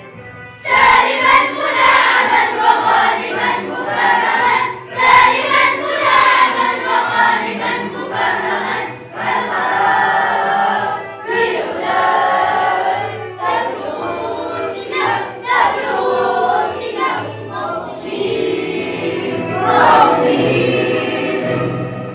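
Children's choir singing in Arabic, phrase after phrase, without a pause.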